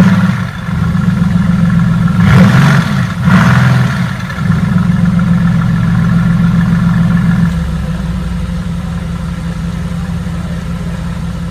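Mercedes-AMG GT S 4.0-litre twin-turbo V8 exhaust idling, heard from outside the car, with two quick revs about two and three and a half seconds in, then settling to a lower, steadier idle about seven to eight seconds in.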